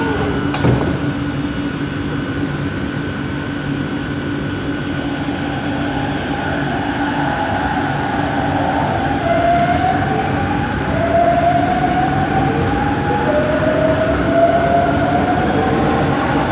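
Bombardier Innovia ART 200 metro train running under way, heard from inside the car: its linear-induction motor drive gives a steady hum and a high whine. From about nine seconds in comes a series of rising whines, one after another, which is the odd motor noise this train is known for. There is a short knock just after the start.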